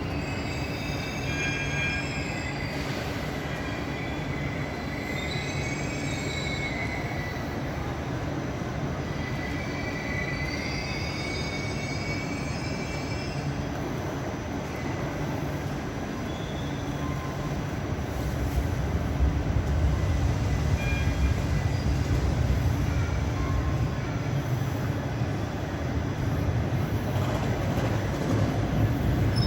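Tram wheels squealing on curved track, with several wavering high-pitched squeals through the first half. About two-thirds of the way in, the louder low rumble of a passing train takes over.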